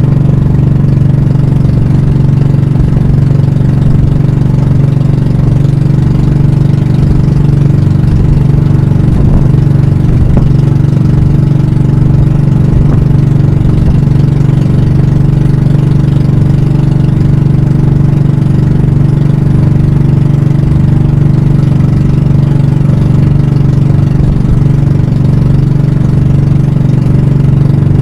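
Banka (pump boat) engine running loud and steady at an even speed, its hum holding one pitch throughout.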